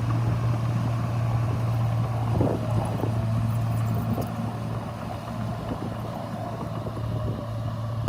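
Diesel engine of heavy earthmoving equipment running steadily with a low, even drone, with a few faint knocks about two and a half seconds in.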